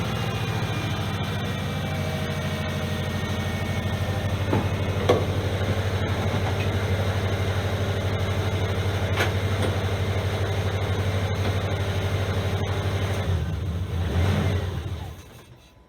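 Replacement flat-four boxer engine in a 2010 Subaru Forester idling steadily, with a few light knocks. Near the end it briefly gets louder, then is switched off and runs down to a stop about 15 seconds in.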